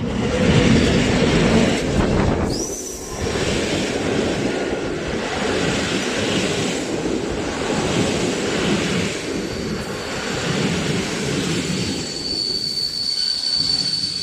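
PKP Intercity EP07P electric locomotive and its passenger coaches rolling past at close range, arriving at the end of the line: a steady rumble and clatter of wheels over the rails. A brief rising squeal comes about two and a half seconds in, and a high, steady wheel squeal sets in near the end.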